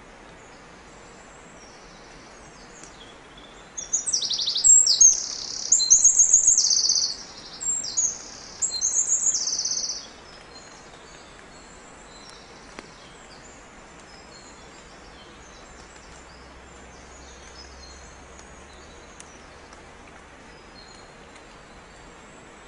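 Birds chirping and trilling: a loud run of song from about four seconds in to about ten seconds in, then fainter scattered chirps over a steady low hiss.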